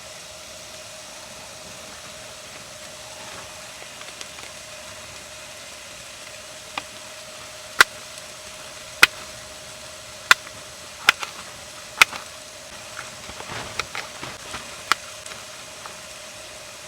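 A knife chopping peppers on a cutting board: a few sharp knocks about a second apart, then lighter, quicker taps, over a steady hiss.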